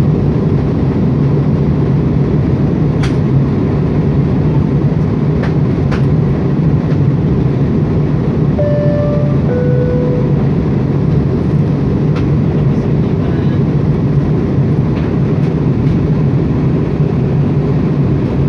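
Steady, loud drone of an airliner cabin in flight: engine and airflow noise. About halfway through, a two-note cabin chime sounds, high then low.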